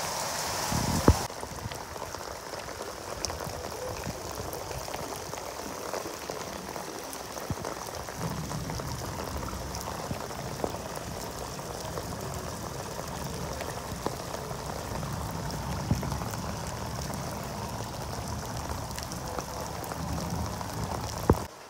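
Heavy rain falling, a steady hiss of rain on roofs and pavement. There is a sharp click about a second in.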